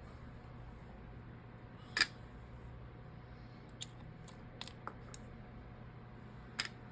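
Small sharp clicks of a hand tool working on a phone's internal parts as the loudspeaker module is taken out: one clear click about two seconds in, a few lighter ticks in the second half and another click near the end, over a faint steady hum.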